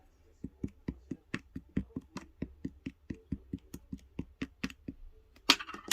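A quick, even run of light taps, about four or five a second, followed near the end by a short, louder rustling burst.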